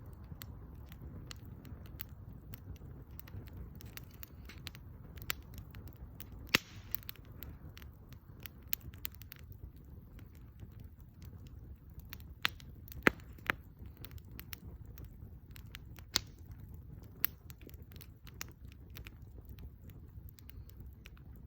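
Wood fire burning in a Captain Stag secondary-combustion stove: irregular sharp crackles and pops over a low steady rumble, with a few louder pops about six and a half and thirteen seconds in.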